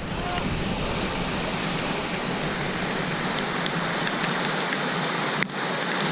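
Steady rush of flowing water, with a short dropout about five and a half seconds in.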